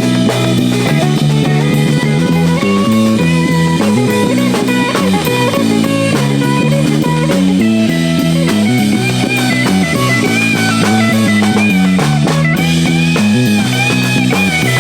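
A rock band playing: electric guitar and drum kit, a steady loud groove with shifting guitar notes.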